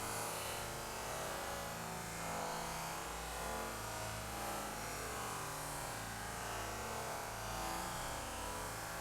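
Steady rain falling, a continuous even hiss, with a low hum underneath.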